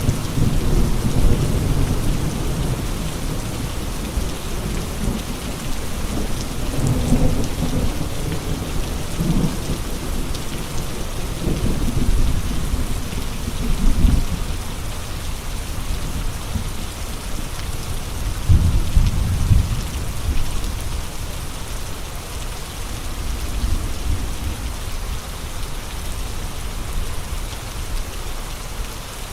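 Steady heavy rain with gusting wind. Low rumbling swells rise and fade several times, strongest about two-thirds of the way through, then settle to a steadier rain hiss near the end.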